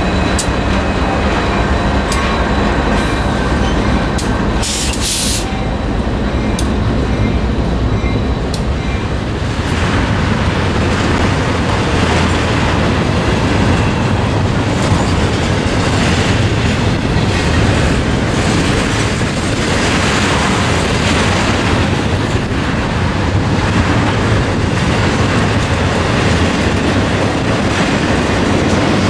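A freight train's cars rolling past close by: a steady rumble of steel wheels on rail, with clacking as the wheels cross rail joints. At first the departing GE C40-8M diesel locomotive's engine is heard, fading within a few seconds, and about five seconds in there is a brief high hiss.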